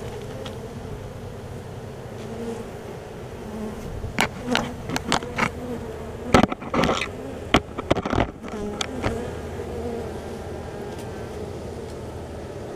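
Honeybees buzzing steadily around a colony being hived into a nuc box, with a cluster of louder, sudden close sounds about four to nine seconds in.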